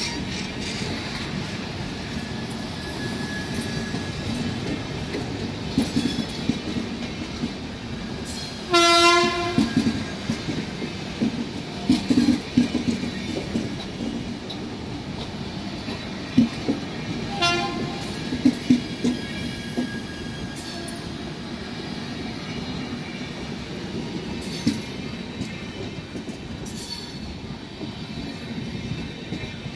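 Indian Railways train running on the line, its wheels clattering and thudding over the rails. The horn sounds one blast of about a second, then a shorter toot about eight seconds later.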